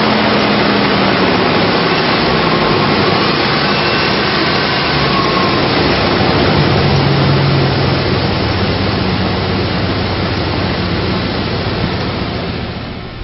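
A Dodge Ram 1500's 5.9-litre Magnum V8 running, a loud steady drone with a low hum. It eases off about two-thirds of the way through and drops further near the end.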